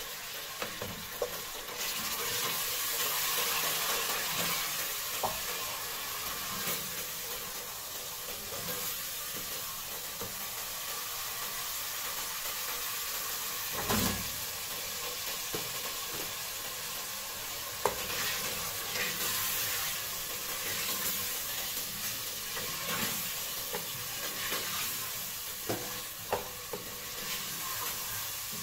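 Spiced tomato masala sizzling in an aluminium pressure cooker pot while a wooden spoon stirs it, with a few short knocks of the spoon against the pot. About halfway through there is a thud as cubed potatoes are tipped in, followed by more stirring and sizzling.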